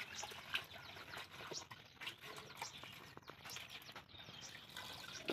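Faint, scattered bird chirps, with soft splashing of water as leafy greens are washed in a bucket and lifted out.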